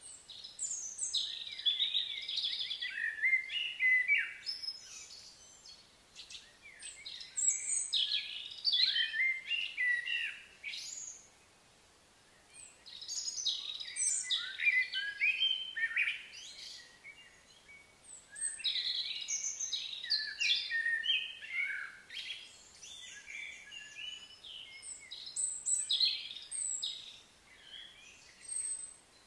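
Small birds chirping and calling in quick, busy bouts a few seconds long, with short lulls between them.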